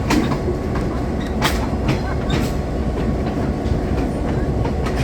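Train rolling along the track: a steady low rumble with irregular clicks and clacks of the wheels over rail joints.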